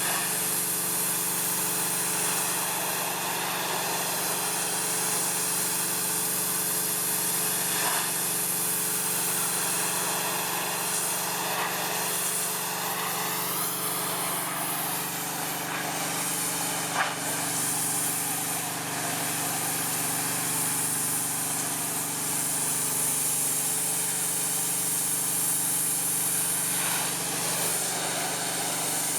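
Gas-engine pressure washer running steadily, its water jet hissing as it strips old stain from wood siding. One brief click a little past the middle.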